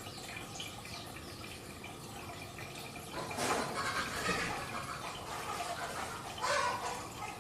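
Water trickling and splashing, with louder surges of splashing about three seconds in and again near the end.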